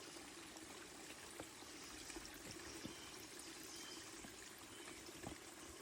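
Faint steady sound of running water, a trickle or small stream, with a few soft taps.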